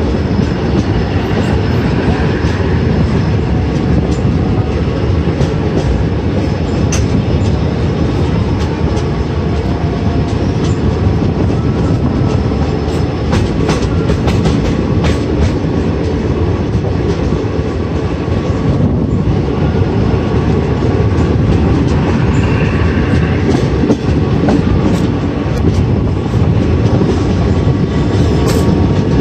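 Passenger train coach running on the track, heard from its open doorway: a steady wheel-and-rail rumble with clickety-clack clicks over rail joints and points.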